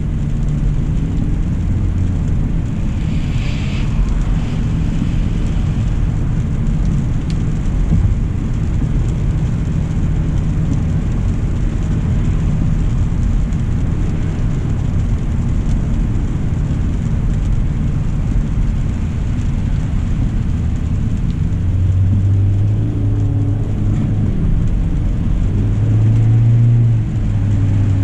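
A 2025 Hyundai Elantra SEL driving on a wet road: steady low road and tyre rumble, with a brief hiss about three seconds in. A steady drivetrain hum comes in past the two-thirds mark and steps up in pitch near the end.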